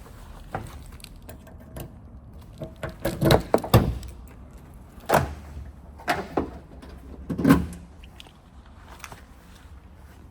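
Several knocks and clunks in a row, about five, between about three and eight seconds in, over a low steady background.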